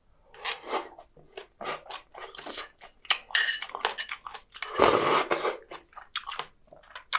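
Close-miked chewing of spicy stir-fried chicken feet: a run of irregular wet crunches and bites, with a longer, louder wet sound about five seconds in.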